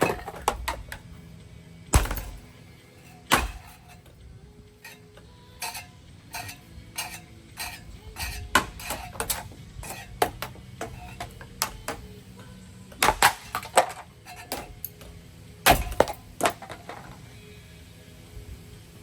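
A ceiling fan being smashed apart: repeated sharp whacks and cracking, with smaller knocks and clattering between. The heaviest strikes come near the start and in a burst about two-thirds of the way through.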